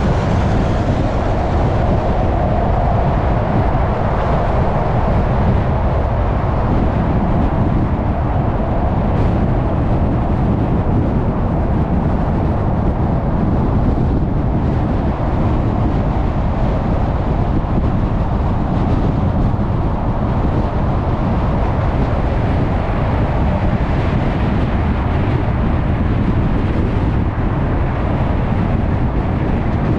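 A car driving at freeway speed: steady tyre and road noise with a low rumble.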